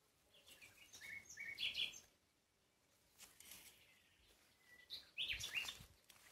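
Small birds chirping faintly: short high chirps in two bouts, one in the first two seconds and another about five seconds in.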